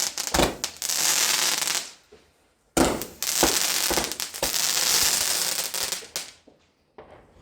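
Firework hissing steadily with dense crackling, in two long stretches, each cut off abruptly by a short silence.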